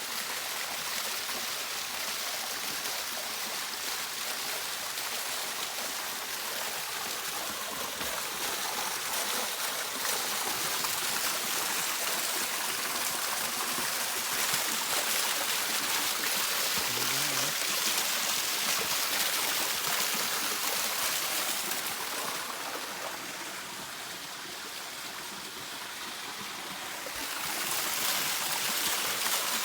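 Water of a stream rushing and cascading, a steady even hiss. It drops in level for a few seconds about three quarters of the way through, then comes back.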